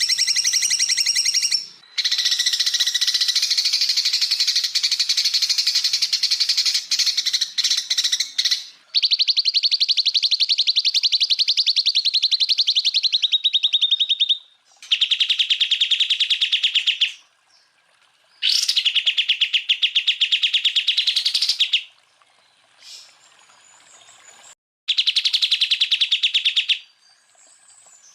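Cucak ijo (green leafbird) singing in long bursts of very rapid, rattling repeated notes, the machine-gun 'tembakan' phrases. Each burst lasts several seconds and is broken by short pauses.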